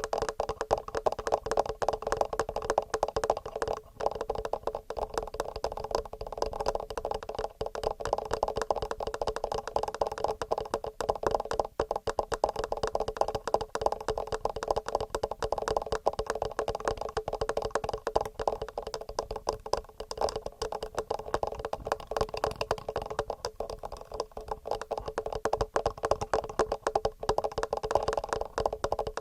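Fast, regular fingernail tapping on the microphones of a TASCAM portable recorder: a dense, unbroken stream of quick taps.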